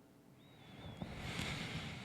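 A soft, close-up breath on the microphone, building up from about half a second in.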